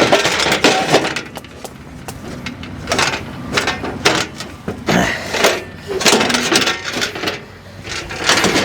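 Irregular metallic clanks, knocks and scrapes of parts being worked loose and handled on an excavator.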